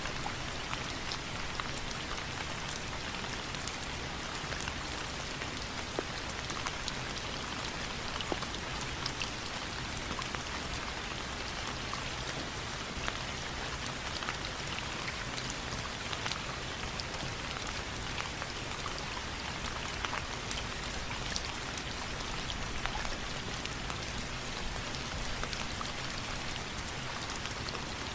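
Steady rain falling, an even hiss dotted with many scattered sharp drop ticks.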